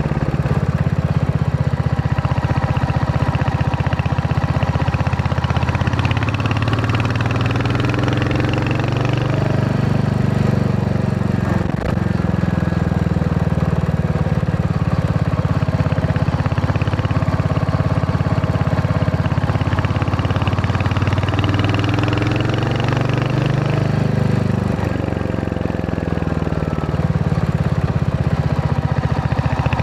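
Royal Enfield Hunter 350's single-cylinder engine running on the move, its pitch dipping and rising several times as the throttle changes, with one short click about twelve seconds in.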